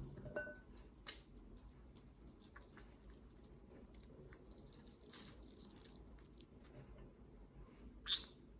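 Green-cheeked conure nibbling walnut: faint, scattered crunching and clicking of its beak on the nut, with a brief sharper sound near the end.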